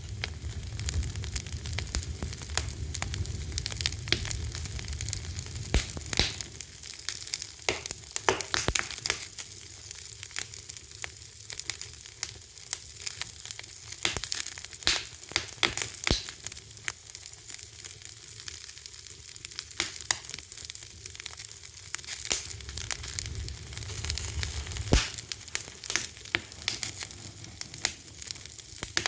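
Fire crackling: a steady hiss with many sharp pops and snaps at irregular intervals. A low rumble sits under it for the first few seconds and again about three-quarters of the way through.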